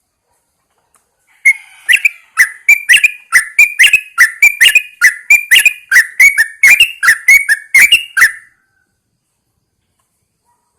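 Yellow-vented bulbul calling: a fast, even run of short, sharp whistled notes, about three a second, each sliding quickly in pitch. The run starts about a second and a half in and stops well before the end.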